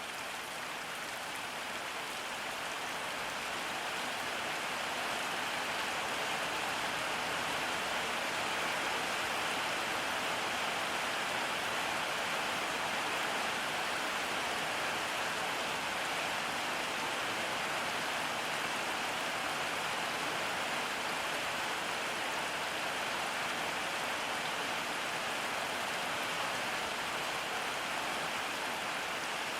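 Steady rain falling, an even hiss of drops on surfaces that swells a little over the first few seconds and then holds.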